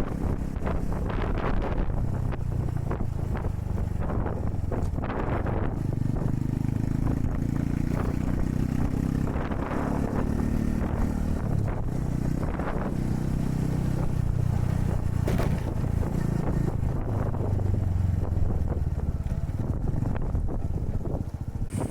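Honda Super Cub 110's single-cylinder four-stroke engine running on the move, its pitch rising and falling with speed, under heavy wind noise buffeting the microphone in strong wind.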